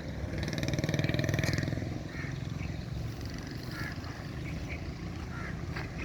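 A motor vehicle engine swells and fades over the first two seconds above a steady low rumble, with short high chirps, like birds, scattered throughout.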